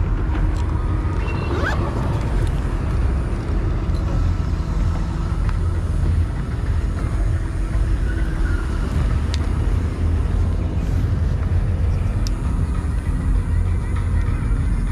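Steady low rumble of wind and road noise while riding along a street, with a few faint brief clicks.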